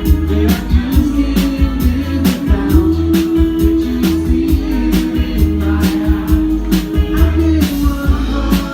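Live rock band playing an instrumental passage with a steady drum-kit beat, bass and guitar lines.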